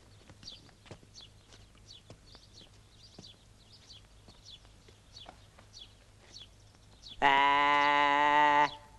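Small birds chirping faintly, short falling chirps repeating every half second or so. About seven seconds in, a loud single held note lasts about a second and a half at a steady pitch, then stops.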